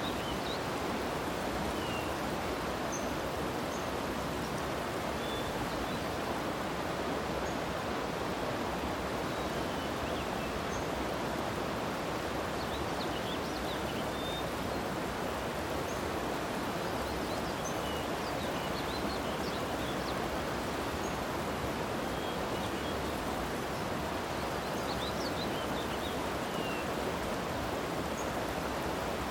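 Steady outdoor natural ambience, an even hiss, with faint short high chirps scattered through it.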